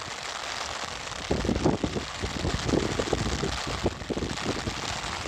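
Typhoon wind buffeting the microphone in uneven low rumbling gusts from about a second in, over a steady hiss.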